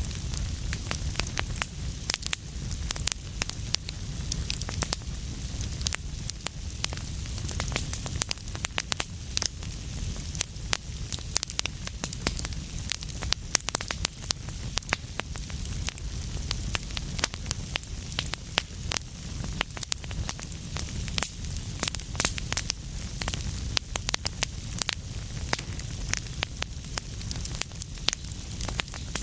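Wood fire burning with a steady low rumble and a dense, irregular run of sharp crackles and pops.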